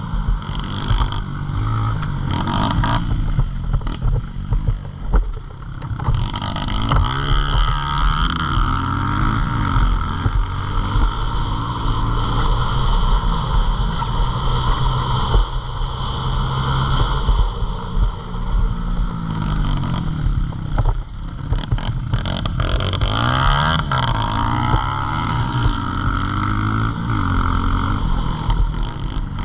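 Pit bike engine revving hard and easing off again and again, its pitch climbing and dropping every few seconds as the bike accelerates, shifts and slows through corners.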